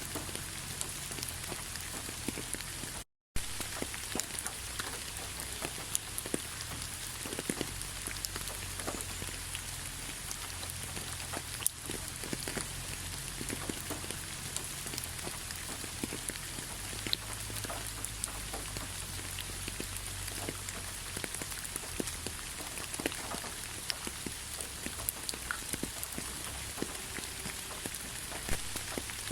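Steady rainfall: an even hiss with many individual drops landing as sharp clicks. The sound cuts out completely for a split second about three seconds in.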